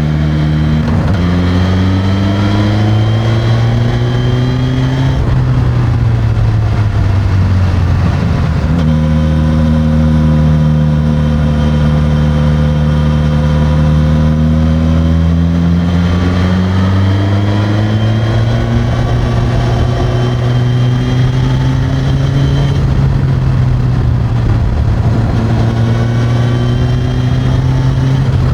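Suzuki GSX-S1000's inline-four running through its stock exhaust while riding, the engine note climbing steadily in each gear and dropping back at gear changes a few times.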